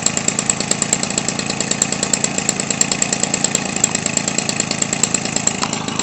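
Weed Eater Featherlite 21 cc two-stroke engine, converted for RC aircraft use, running steadily while it swings an 18x6 propeller.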